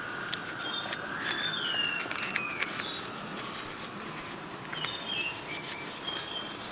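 Bird singing in two phrases of clear whistled notes that step down in pitch, about a second in and again near five seconds in. Under it come small crinkling clicks as a banana leaf is folded by hand.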